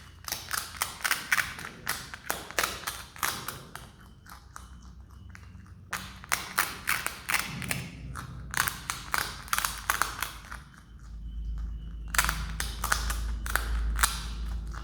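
Himalayan marmot biting and crunching a puffed rice cake: three runs of quick, crisp crunches with short pauses between them, over a low rumble near the end.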